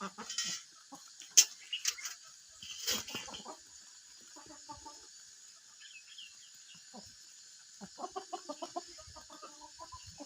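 Chickens clucking in runs of short, quick notes, with a few sharp clicks in the first three seconds, the loudest about a second and a half in.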